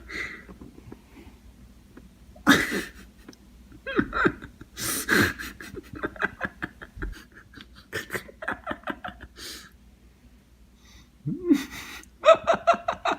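A person's voice laughing in several short bursts of rapid pulses, with breathing in the quieter gaps between them.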